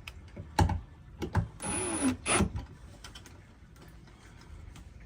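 Cordless drill driving small screws into a light fixture's back plate in two short bursts about two seconds in, with a few sharp clicks and knocks of handling before them.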